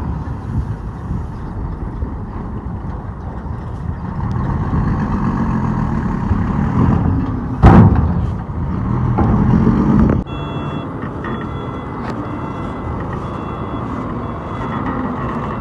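Dump truck's diesel engine running, with a sudden loud blast of noise about halfway through. About two-thirds of the way in, a reversing alarm starts beeping steadily as the truck backs up.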